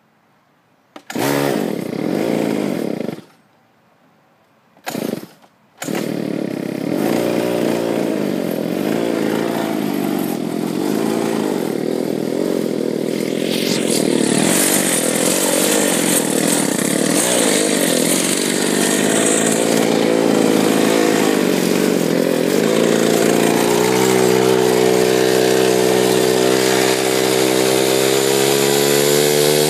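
Mini bike's small single-cylinder engine starting: it fires for about two seconds and dies, catches briefly again, then keeps running from about six seconds in. It settles into a steady run a little past the midpoint, and its pitch slowly rises near the end.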